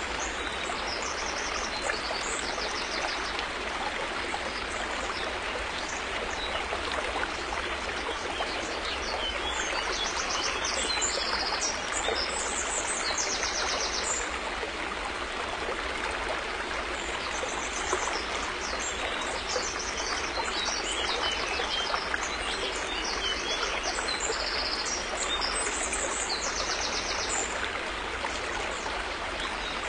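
River water flowing steadily: a continuous, even rush of moving water. Short, high-pitched rapid trills come and go above it throughout.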